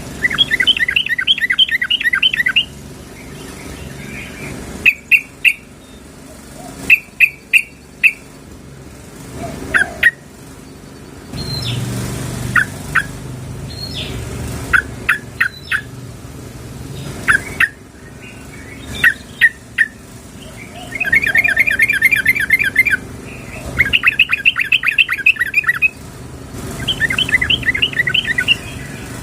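Yellow-vented bulbuls (trucukan) calling: a female's call to a male, the kind used to lure birds. Phrases of rapid chattering trills, each lasting one to three seconds, come near the start and again several times in the last third. Between them are single sharp chirps.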